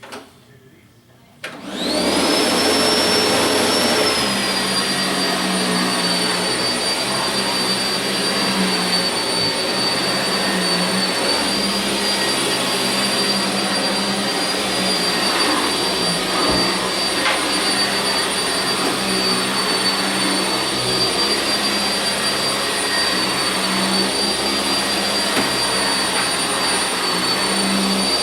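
Sanitaire SC679j upright vacuum switched on about a second and a half in. The motor spins up with a rising whine, then runs steadily with a high whistle.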